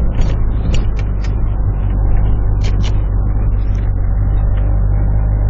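Four-wheel-drive vehicle's engine and drivetrain with a steady low drone, heard from inside the cab as it climbs a snowy trail. Scattered knocks and rattles come in the first three seconds as it rides over rough ice.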